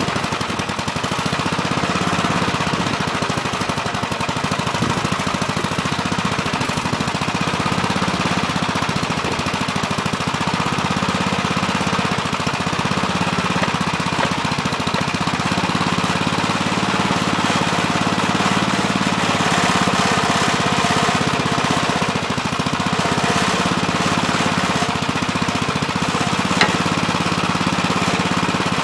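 Gravely Terramite backhoe's engine running steadily while digging, its pitch sagging and recovering a few times, with one sharp click near the end.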